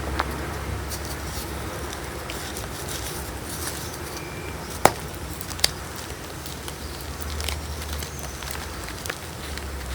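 Pieces of gym chalk (magnesium carbonate) being crushed between fingers: a continuous crumbly crunching and crackling, with a sharp snap about five seconds in and another a moment later.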